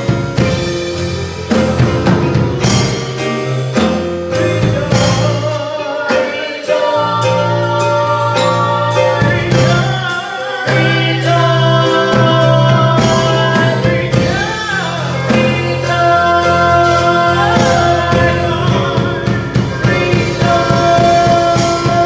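Gospel music: singing over organ or keyboard, bass and a drum kit with a steady beat.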